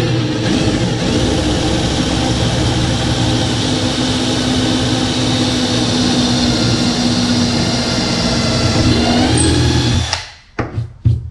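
Electric drill with a 5/32-inch bit running steadily for about ten seconds while drilling a hole through the varnished wooden kayak deck, its pitch dipping slightly just before it stops. A few sharp clicks follow near the end.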